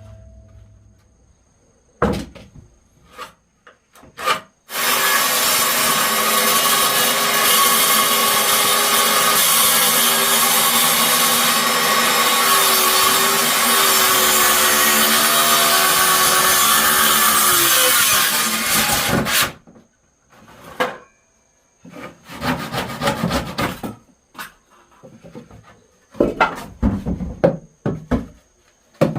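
A power tool cutting wood, running steadily for about fifteen seconds and then stopping suddenly, with scattered knocks and clatters of handling before and after.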